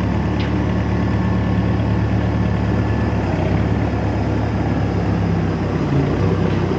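A vehicle engine running steadily near idle with a low, even hum, from the machine bringing a salvage car in.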